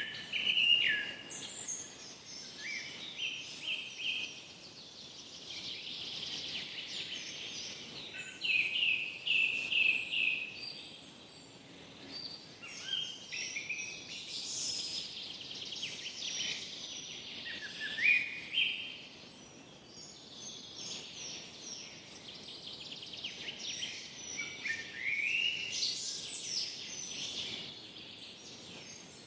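Several songbirds singing in a forest, with phrases of quick repeated notes and slurred whistles every few seconds over a faint steady background hiss.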